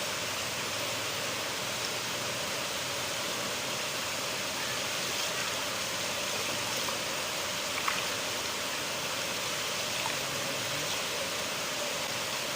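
A river flowing: a steady, even rush of water, with a few faint short clicks in the spray.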